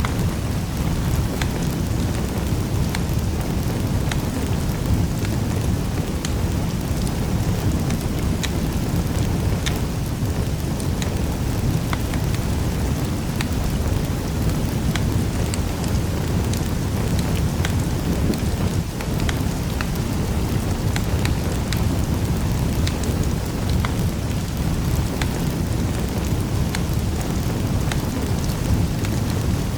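Wood fire burning in a fireplace: a steady low rumble of flame with frequent small, sharp crackles and pops scattered throughout.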